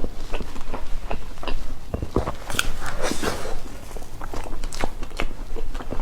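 Close-miked eating sounds of a person chewing cake: quick wet mouth clicks and chewing, with a louder, noisier stretch about three seconds in.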